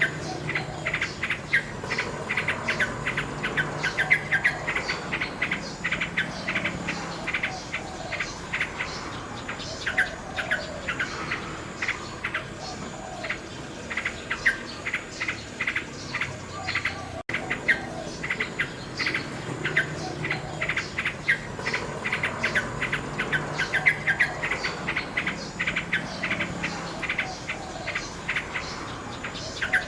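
Nightingale singing: rapid runs of repeated clicks and chirping phrases, one after another, with a momentary dropout about seventeen seconds in.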